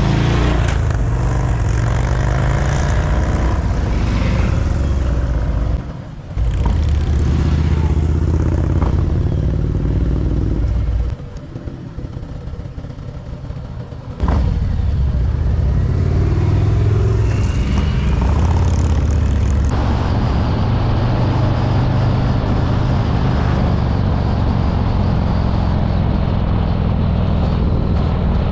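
Harley-Davidson touring motorcycle's V-twin engine running at road speed. It goes quieter briefly about six seconds in, and again for about three seconds near the middle as the throttle is rolled off, then pulls back up.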